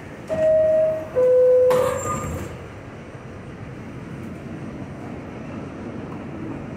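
R68 subway car's two-tone door chime, a higher tone then a lower one, the signal that the doors are closing. A short hiss follows about two seconds in, then the steady running noise of the car.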